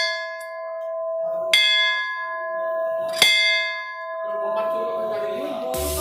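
Temple bell struck twice, about a second and a half apart, each strike ringing on and slowly fading. Voices come in near the end.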